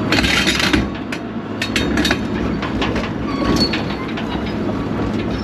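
A heavy land-clearing machine's engine running steadily under load, with a burst of crunching noise in the first second and scattered sharp cracks and clanks over the next few seconds.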